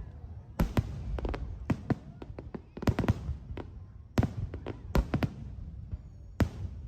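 Sharp bangs and cracks, several a second and irregular, some ringing briefly, over a steady low rumble.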